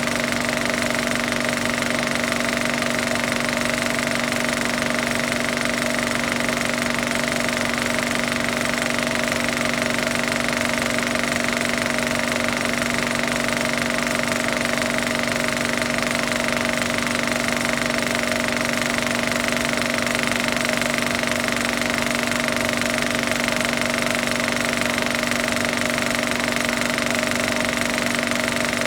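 Home-movie film projector running: a steady motor whir with the rapid clatter of the film advancing, unchanging throughout.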